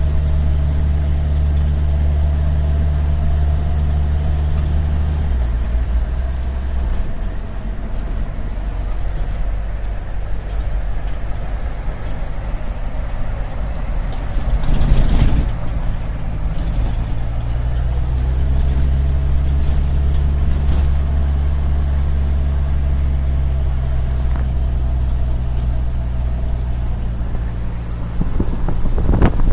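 Vehicle engine running while driving, a steady low hum that eases off about five seconds in and picks up again around eighteen seconds. A brief rush of noise comes about halfway through.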